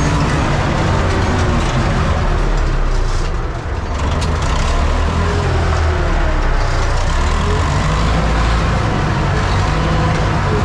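Universal U650 tractor's diesel engine running steadily, with a brief slight dip about three and a half seconds in.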